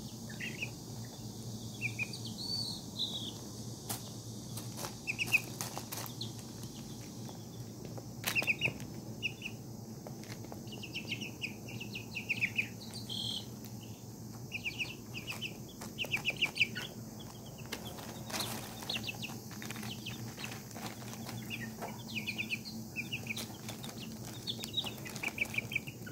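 Young chicks peeping over and over in short high calls, often in quick runs of several peeps. Scattered sharp taps come through among them, over a low steady hum.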